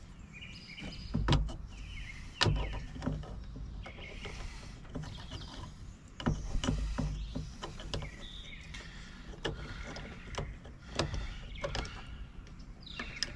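Small metal parts of a Baldwin mortise lock being handled and worked on, giving irregular sharp clicks and knocks, with louder knocks about a second in, at two and a half seconds and at six seconds.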